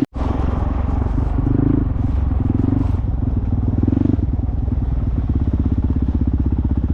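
Dual-sport motorcycle engine running while riding; about four seconds in its note settles into a steady, even pulsing.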